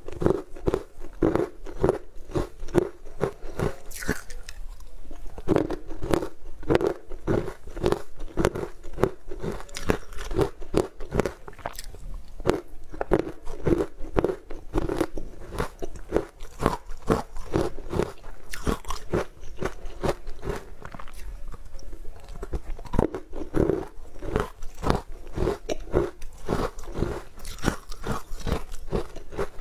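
Close-miked eating: a person chewing and biting green powder-dusted sweet cubes, with steady wet mouth clicks and smacks about three times a second.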